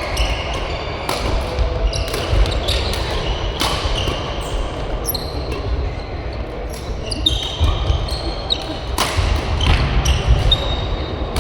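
Badminton rally on an indoor court: sharp racket hits on the shuttlecock, and short squeaks of shoes on the court floor.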